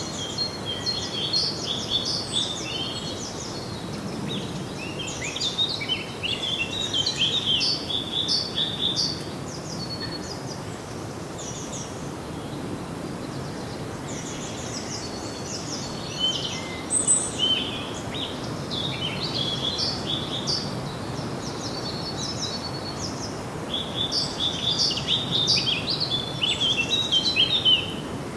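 Several songbirds chirping and singing at once in quick, high twittering bouts that thin out for a few seconds around the middle, over a steady low background noise.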